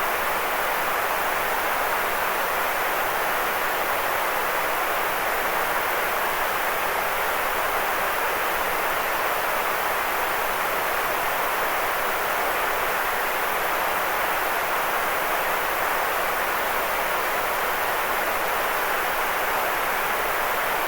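Continuous white noise for sleep: a steady, unchanging hiss, fullest in the middle range and softer in the highs and lows.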